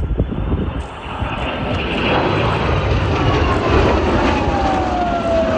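Aircraft flying past with a loud, steady engine rush, its engine whine falling in pitch over the last couple of seconds as it passes.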